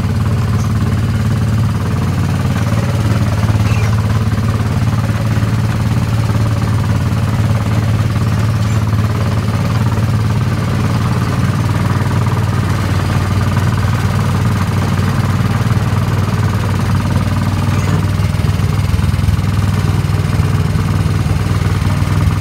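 Small engine of an antique-style ride car running steadily as the car drives along its guide-rail track: a constant low drone.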